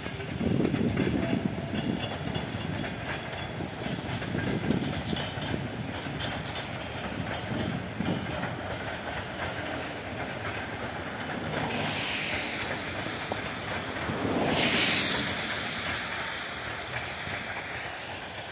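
Electric commuter train (elektrichka) running past, its wheels clattering over the rail joints. Low thuds in the first two seconds, and two loud hisses in the last third, the second the loudest.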